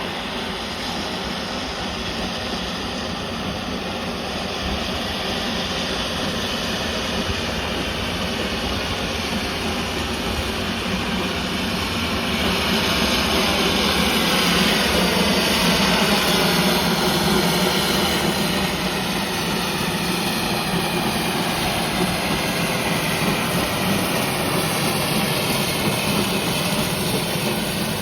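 A train running past close by, a steady mechanical roar that swells about twelve seconds in and then holds.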